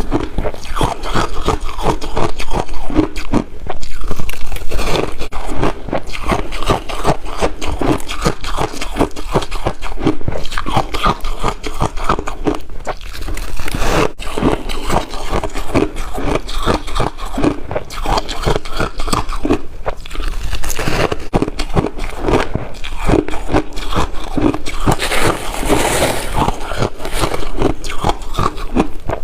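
Ice being chewed and bitten, with continuous rapid crunching and cracking.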